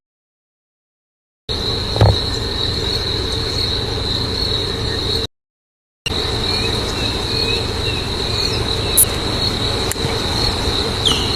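Steady high-pitched insect chorus over a low background rumble, cut to dead silence for the first second and a half and again briefly in the middle. A short low thump comes about two seconds in.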